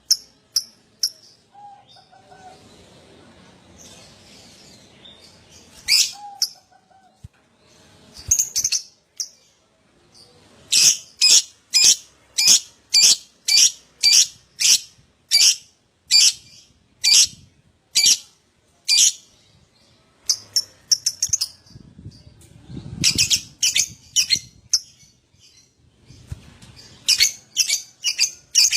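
Lovebird calling with sharp, high-pitched chirps. They come scattered at first, then in a steady run of about two a second through the middle, then in quick clusters near the end.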